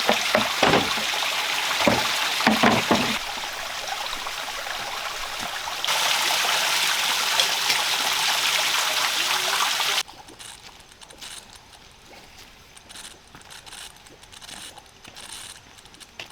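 Loud, steady rushing water noise in a few abrupt cuts, with several knocks in the first three seconds. About ten seconds in it drops suddenly to a much quieter stretch with faint scattered ticks.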